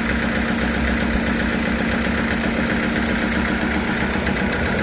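Sawmill machinery running steadily, with a constant engine-like hum that does not change.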